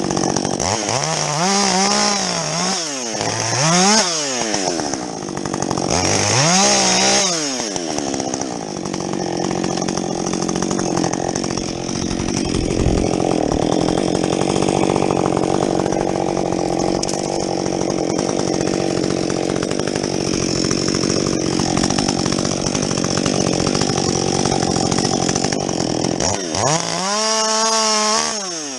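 Husqvarna 562XP two-stroke chainsaw with a modified muffler, revved up and down a few times, then held at full throttle for a long steady cut through a log. Near the end it drops back and is revved up and down again.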